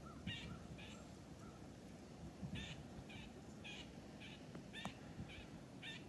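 A bird giving a faint series of short, harsh calls, about two a second, with a pause of a second or so after the first pair.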